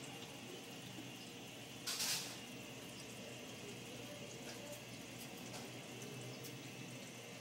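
Metrowealth WP5B countertop dishwasher running, with water splashing and running inside it over a steady low hum, and a brief louder gush about two seconds in.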